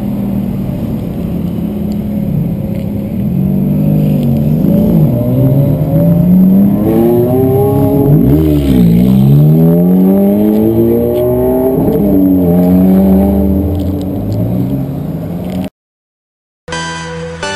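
Ferrari sports car engines revving as the cars drive off one after another, the pitch climbing and dropping several times, with one car sweeping close by about eight or nine seconds in. The engine sound cuts off suddenly near the end and music begins.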